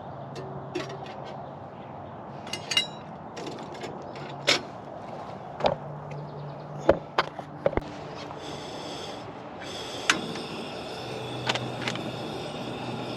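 Scattered sharp clicks and knocks of hard objects being handled, over a steady low hum, with a hiss coming in about two-thirds of the way through.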